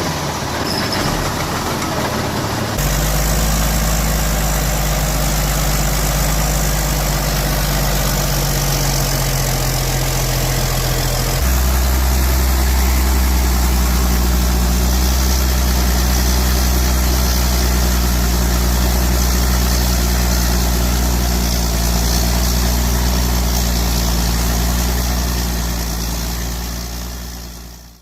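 Heavy diesel engine of a homemade timber truck running steadily with a deep low drone. Its pitch and loudness shift at about three seconds and again about eleven seconds in, and it fades out at the end.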